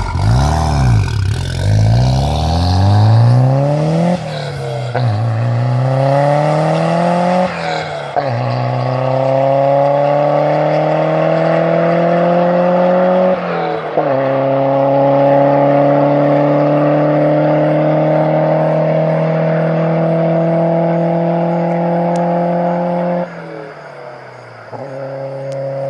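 Toyota MR2 Turbo's 2.0-litre turbocharged four-cylinder (3S-GTE) through a full 3-inch exhaust at 18 psi boost, at full throttle from a standstill to about 120 mph. The pitch climbs through the revs, drops sharply at three gear changes, then rises slowly through one long pull before the throttle closes about three seconds from the end and the engine settles to a lower, steady note.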